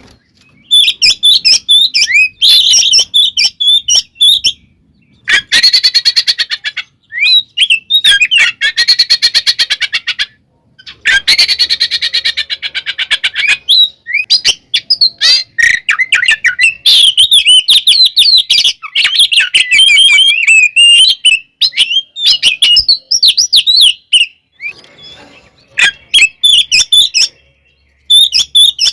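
Oriental magpie-robin (kacer) singing loudly in rapid, varied whistled phrases with short pauses. In the first half the song breaks into three harsh, buzzy rattles of two to three seconds each.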